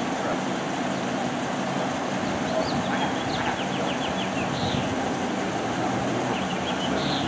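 Steady hum of an idling vehicle engine. Two short runs of faint high chirping ticks sound over it, about three seconds in and again near the end.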